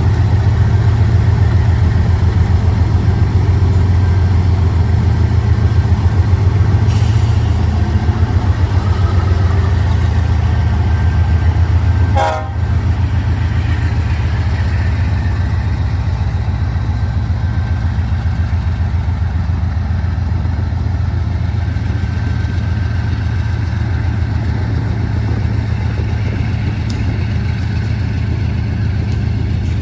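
BNSF GE diesel-electric locomotives, an ES44DC and a C44-9W, working under load as the train restarts: a loud, steady low engine drone with a fine pulsing throb. The sound dips briefly about twelve seconds in.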